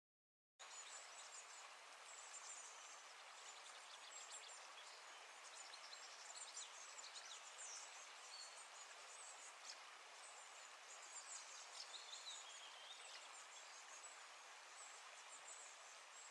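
Faint outdoor ambience with many small birds chirping, short high calls scattered throughout and a few falling notes, after a moment of dead silence at the start.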